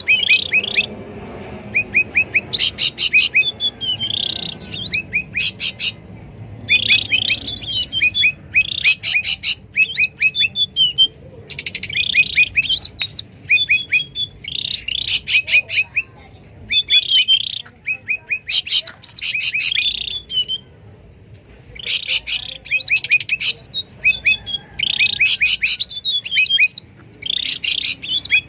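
Cucak ranting bulbuls calling loudly: bursts of fast, sharp repeated notes and chattering phrases, one after another every second or so, with brief pauses between bouts.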